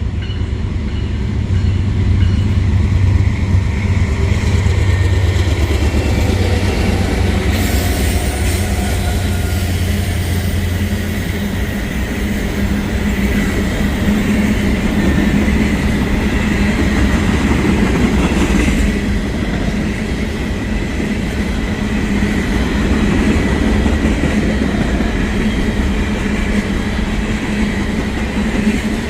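Norfolk Southern diesel-electric locomotive passing at close range, its deep engine rumble strongest for the first ten seconds or so. Ballast cars follow, rolling over the rails with a steady clatter and a thin, high, steady wheel tone.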